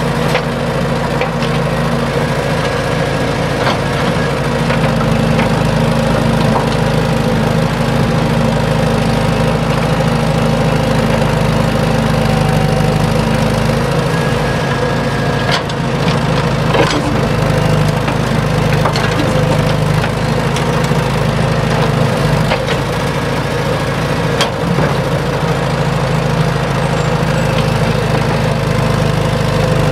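Small motorised model excavator running with a steady mechanical hum, with scattered clicks and crunches as its bucket digs into and dumps sand.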